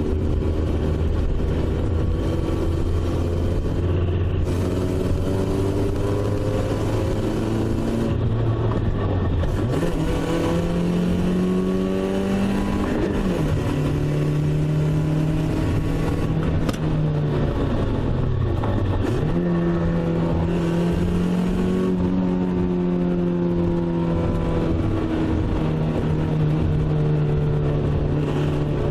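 Car engine running while driving, heard from inside the car. Its hum holds low and steady at first, rises about ten seconds in, dips and climbs back twice, then runs steady at the higher speed.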